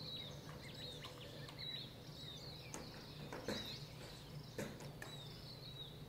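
Small birds chirping over and over, with short calls that bend in pitch, over a steady low hum of outdoor ambience. A few faint clicks come in, the clearest about three and a half and four and a half seconds in.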